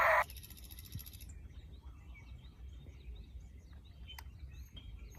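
A loud sound with rising tones cuts off suddenly a quarter second in. Then come a low outdoor background rumble and small birds chirping now and then.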